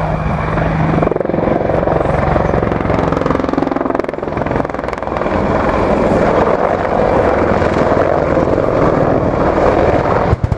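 Helicopter flying a display, with steady rotor and turbine noise and a fast, low pulsing from the blades. The sound briefly dips and chops near the end.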